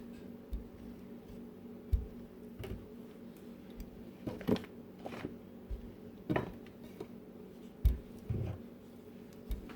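Kitchen utensils and dishes handled on a counter: scattered light knocks and clatter over a steady low hum.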